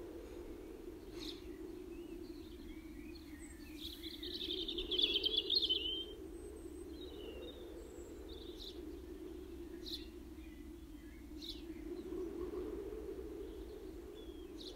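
Birds chirping over a steady low drone that slowly swells and fades. A loud rapid trill about four seconds in lasts around two seconds and is the loudest sound, and a few short high chirps follow.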